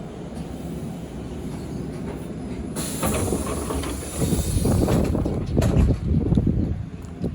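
Sanyo Electric Railway 3050 series commuter train: a steady low rumble, then a sudden burst of air hiss about three seconds in, followed by louder, uneven low rumbling.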